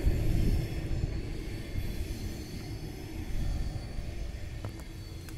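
Low rumble of a passing train on the railway track, loudest at the start and fading away.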